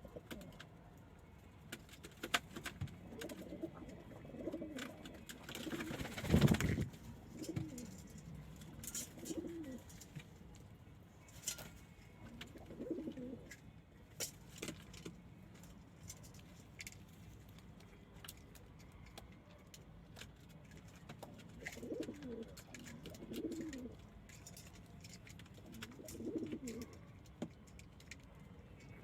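Domestic pigeons cooing, with low warbling coos coming in groups every few seconds. A loud rustling noise about six seconds in, and scattered light clicks and taps.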